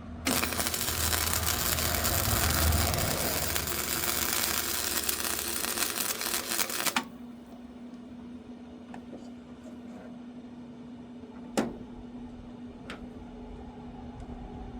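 Welding arc crackling and sizzling steadily for about seven seconds, then cutting off suddenly. A steady low hum and a single sharp click follow.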